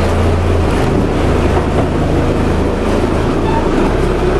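Lobster boat's engine running steadily, a loud low drone with the hiss of water and wind over it.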